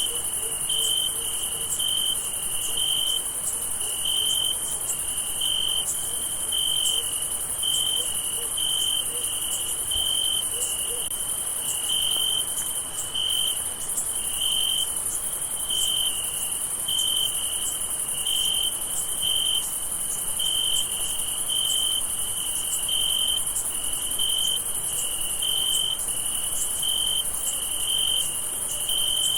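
Crickets chirping: one close cricket repeats a clear, even chirp about every two-thirds of a second over a continuous high, shrill insect trill.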